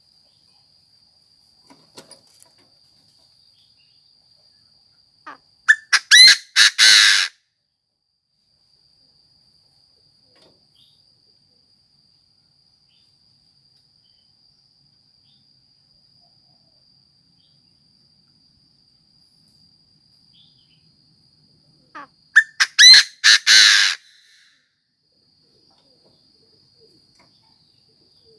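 Chinese francolin decoy bird calling twice, about sixteen seconds apart. Each call is a few short notes leading into a loud, harsh phrase of rapid notes about a second and a half long.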